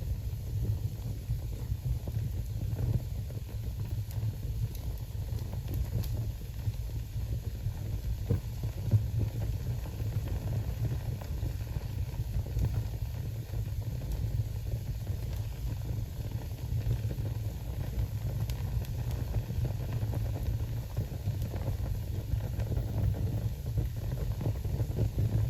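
Newly lit wood fire burning in a fireplace: a steady low rumble of flames and draft, with occasional faint crackles and pops.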